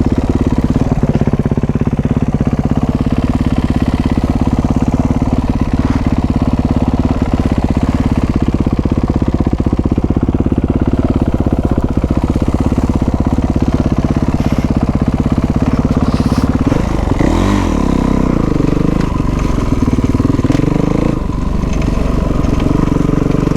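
Kawasaki dirt bike engine running at a steady note, then, about seventeen seconds in, its pitch rises and falls several times as the throttle is opened and closed.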